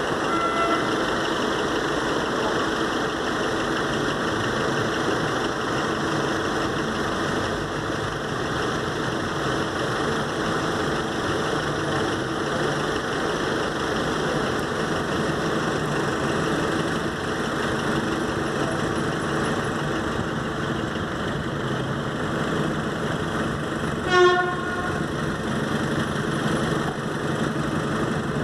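A train running through a level crossing, a steady rumble of wheels on rail throughout. About 24 seconds in there is one short horn toot.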